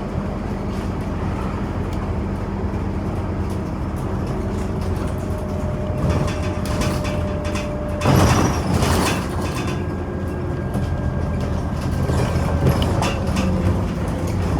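Scania Omnicity bus running, heard from inside the passenger cabin: steady engine and road noise. About eight seconds in comes a loud, noisy burst lasting about a second.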